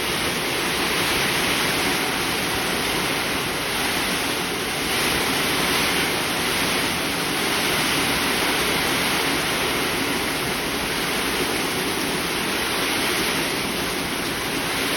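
Heavy rain pouring down, a steady rushing hiss with no let-up.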